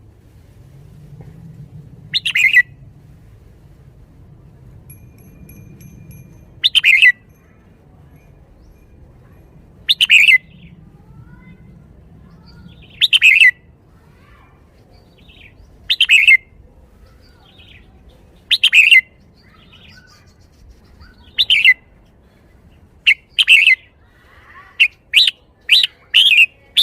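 Red-whiskered bulbul singing short, loud phrases about every three seconds, then several in quick succession near the end, in the song style Thai keepers call 'bottle-shaking'.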